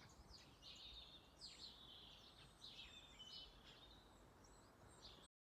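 Faint songbird chirps and trills over quiet outdoor background noise, cutting off to total silence near the end.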